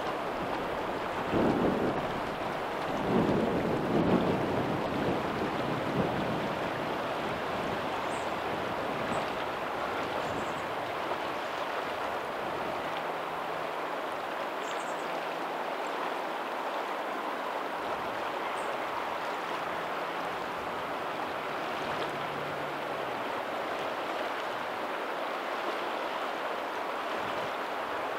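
Steady rush of water where a lagoon's tidal outflow meets the sea, with small waves on a pebbly shore; it swells louder twice in the first few seconds.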